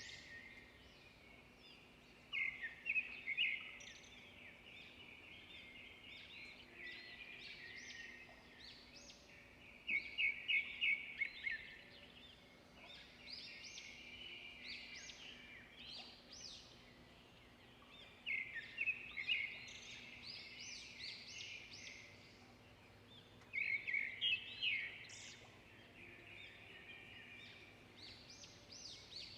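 Several small songbirds chirping and singing, with the notes overlapping. Loud bursts of rapid chirping come back every few seconds.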